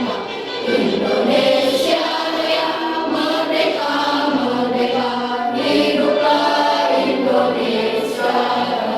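A choir singing a song together, the many voices continuing without a break.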